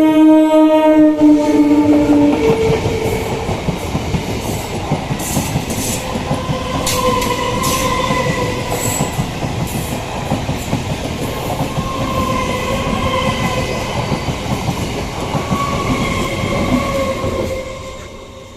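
Indian EMU local train passing a level crossing: its horn ends with a drop in pitch about two seconds in, then the train runs by with the clatter of wheels over rail joints and whining wheel squeal. The sound falls away quickly near the end.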